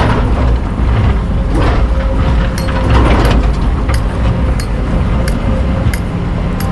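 Hydraulic excavator's diesel engine running under load, a steady drone with a steady whine over it. Swells of rushing noise come three times in the first half, and sharp short clicks come about once a second in the second half.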